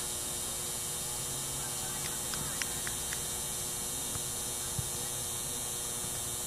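Steady background hum and hiss with two faint steady tones, and a few faint short clicks and brief distant calls in the middle, the sharpest just under five seconds in.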